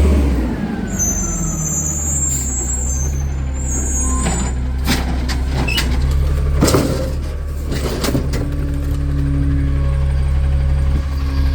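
Recycling garbage truck's engine running low and steady after slowing, with a high air-brake squeal about a second in and a few sharp clanks near the middle.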